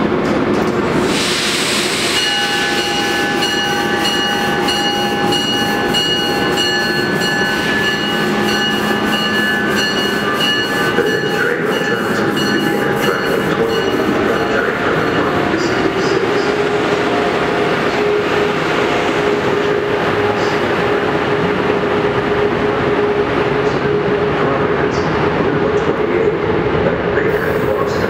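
MARC passenger train behind an HHP-8 electric locomotive pulling slowly into the station, its wheels clicking over rail joints while the brakes squeal with several steady high tones. After about halfway the squeal stops and a single steady hum carries on.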